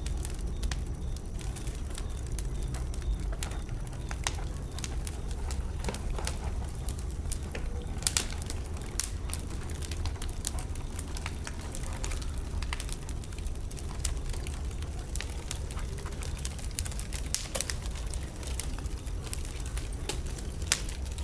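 Wood bonfire burning, the logs crackling and popping irregularly over a steady low rumble, with a cluster of louder pops about eight seconds in.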